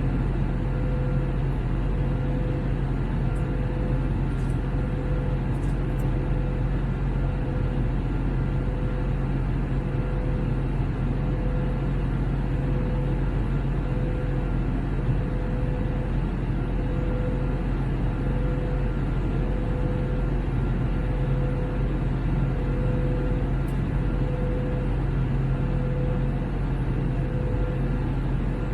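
Steady cabin noise inside an Airbus A321neo in flight: the rush of air over the fuselage and the drone of its Pratt & Whitney geared turbofan engines, with a steady mid-pitched hum that pulses faintly.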